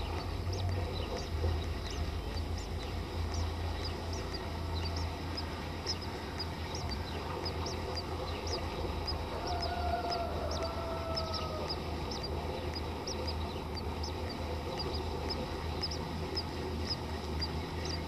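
Small birds giving high, thin chip calls, two or three a second, over a steady low hum. About ten seconds in, a faint drawn-out call, slightly falling in pitch, lasts about two seconds.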